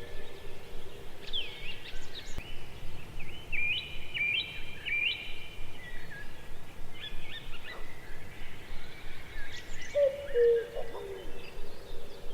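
Several wild birds chirping and singing in quick repeated phrases. About ten seconds in, a lower hooting call of a few falling notes joins them.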